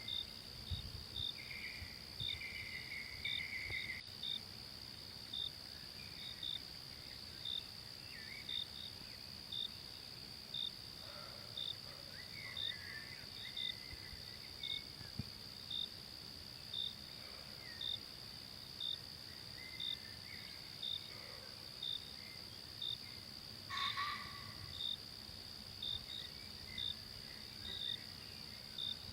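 Forest ambience of insects: a steady high drone with a short cricket-like chirp repeating every second or so. Scattered bird calls come over it, with one sharper call about 24 seconds in.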